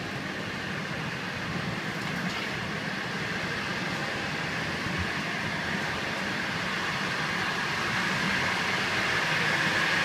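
Steady running noise inside a passenger coach of a moving China Railways train: wheels on the rails and the car's rumble, growing louder toward the end.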